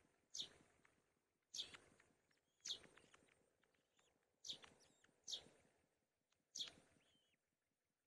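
Faint bird calls: a sharp, high call that slides quickly downward, repeated about once a second, with thinner, softer chirps between them.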